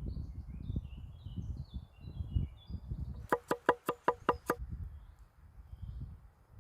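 A quick run of seven sharp wooden knocks, about six a second, in the middle, over a steady low rumble. Birds chirp during the first two seconds.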